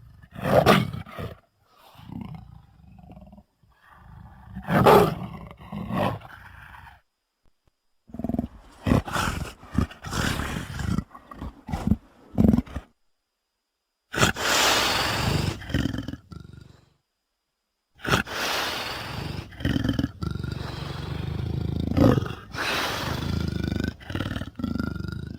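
A voice performer roaring and growling as Sweetums, the Muppets' giant hairy monster, in a string of short edited clips. The clips are split by sudden cuts to silence, and the longest roars come near the middle and toward the end.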